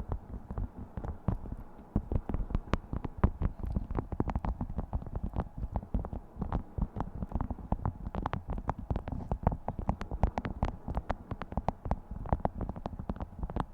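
Beeswax food wrap being crinkled and scrunched by hand: dense, irregular crackling and crinkling.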